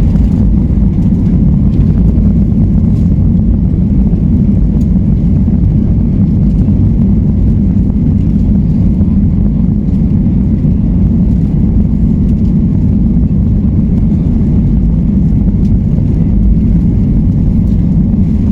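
A loud, steady low rumble of a Boeing 737's jet engines at takeoff thrust, heard from inside the cabin as the airliner departs.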